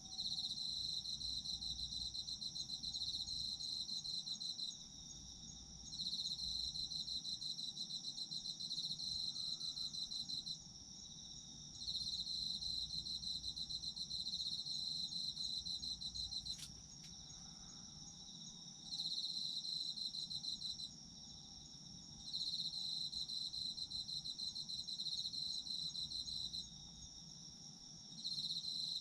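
Chorus of autumn insects, crickets: one calls in a continuous high, steady trill while another chirps in rapid pulsed runs of a few seconds broken by short pauses. A single sharp click comes about two-thirds of the way in.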